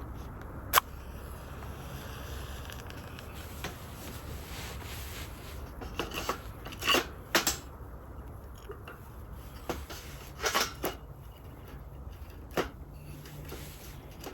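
Scattered clicks and knocks of objects being handled, a sharp one about a second in and small clusters later, over a low steady hum.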